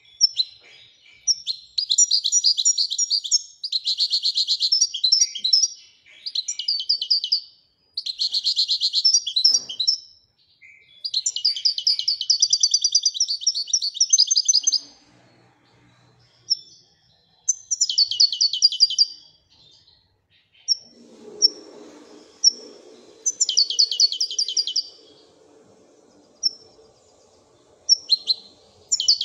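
Moroccan goldfinch singing in the 'wiidani' song style: fast, high twittering phrases of one to three seconds, broken by short pauses, about eight phrases in all.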